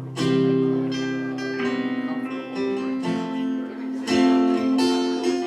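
A band playing a song's instrumental intro, led by strummed acoustic guitar holding sustained chords, with fresh strums near the start and about four seconds in.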